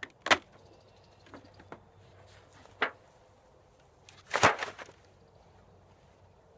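Sharp knocks and clicks: single knocks about a third of a second and nearly three seconds in, then a louder cluster of cracks about four and a half seconds in.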